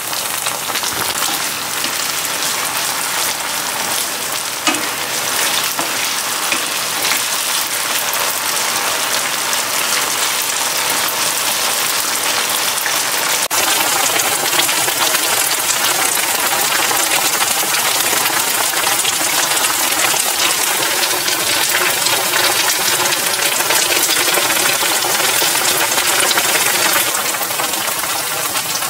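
Mushroom pieces frying in hot oil in a nonstick pan: a steady, dense sizzling crackle that gets a little louder about halfway through.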